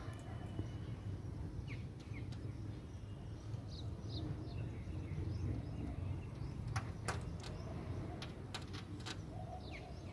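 Outdoor background with a steady low rumble and scattered short, falling bird chirps. A quick run of sharp clicks comes about seven to nine seconds in.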